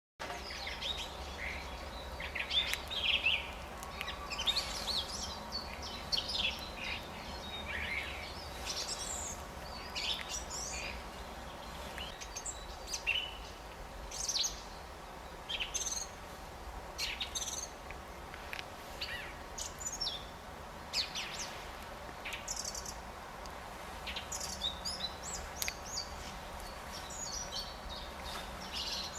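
Several small birds chirping and singing in short, quick calls over a steady low rumble.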